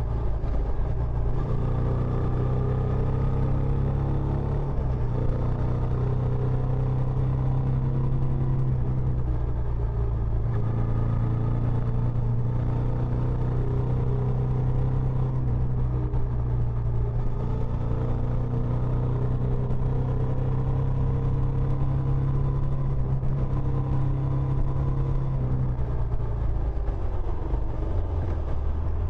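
Benelli Imperiale 400's single-cylinder engine running through its stock exhaust, a steady deep rumble whose pitch shifts slightly a few times.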